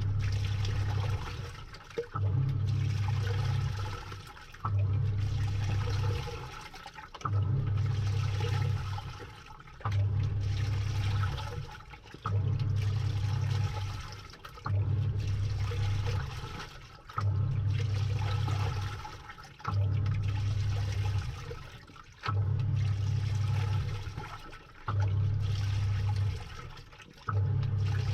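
Samsung 6.5 kg top-load washing machine agitating the wash, heard from inside the drum: the pulsator motor hums in strokes of about a second and a half, one about every two and a half seconds, each starting with a click, while water sloshes throughout.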